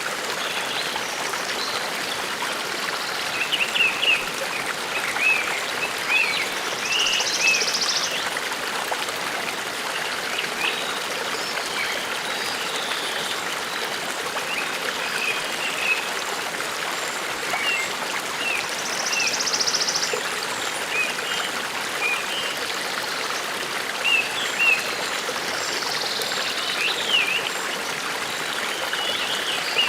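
Forest brook running steadily, with small birds chirping throughout and a few brief buzzy trills.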